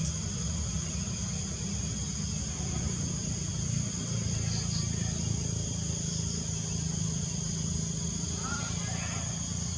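Insects, crickets or cicadas, droning in a steady high, even tone over a steady low rumble. A few short bird chirps come about halfway through and again near the end.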